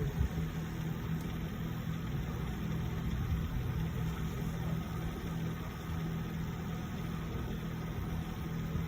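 Steady low mechanical hum, with a few clicks right at the start; the laptop's speaker no longer makes its fault noise.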